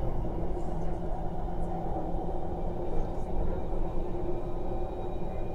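Kinki Sharyo–Kawasaki SP1900 electric train running at speed, heard inside the carriage: a steady rumble with a faint steady hum over it.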